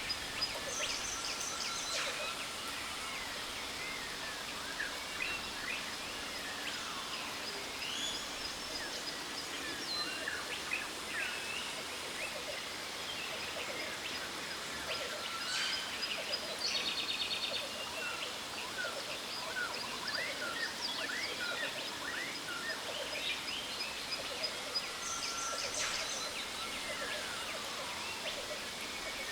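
Steady rush of a jungle waterfall with many birds calling over it: short chirps and whistled notes, and now and then a fast buzzing trill, over a thin steady high tone.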